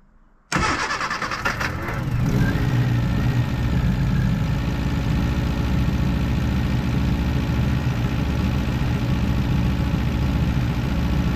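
Freshly rebuilt 1311cc A-series four-cylinder engine starting about half a second in, catching at once and settling into steady running. These are its first runs after the rebuild, with the choke out to help it warm up.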